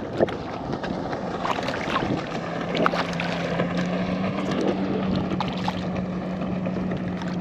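Wind buffeting the microphone on open water, with scattered light knocks and clicks. A steady low hum comes in about two seconds in and holds.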